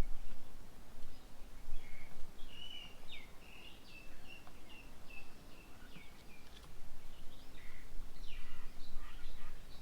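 Small birds calling: a run of short, high chirps repeated several times a second, then a few quick downward-sliding calls near the end, over a low steady background hum.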